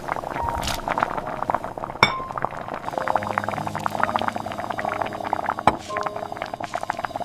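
Rapid, light clinking of dishes and utensils, with a few louder clinks, over faint soft background music.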